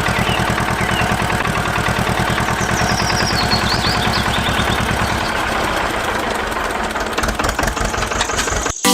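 Small diesel-type engine idling steadily with a fast, even knocking beat; it cuts off abruptly near the end.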